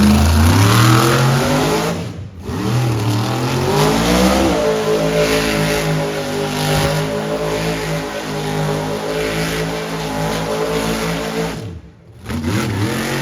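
Monster truck engine revving hard: it climbs twice with a brief lift-off about two seconds in, holds a steady high-revving run for about seven seconds, drops off sharply near the end, then revs up again.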